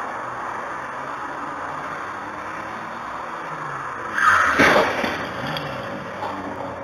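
Car driving with steady road noise, then a sudden loud collision impact about four and a half seconds in.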